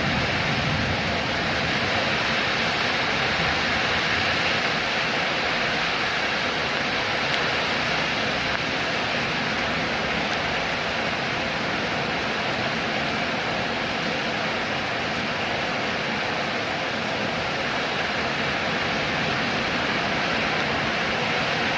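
Steady rainfall, an even hiss of rain with no single drops or pauses standing out.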